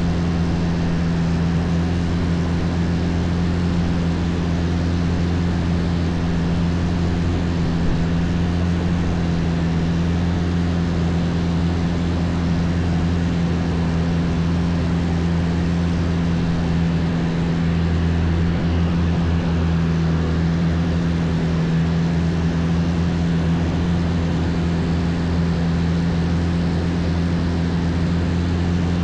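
Longtail boat's engine running steadily under way, an unbroken low drone over a steady hiss.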